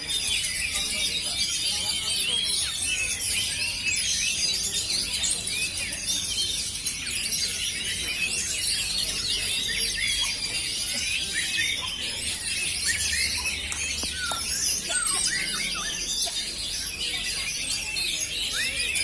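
Many oriental magpie-robins (kacer) singing at once, a dense chorus of overlapping whistles, chirps and trills at an even level.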